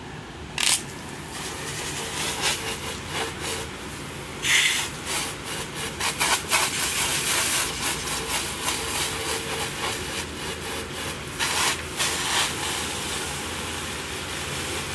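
A hot object plunged into water, sizzling and crackling with irregular sharp pops over a continuous hiss, starting suddenly about half a second in.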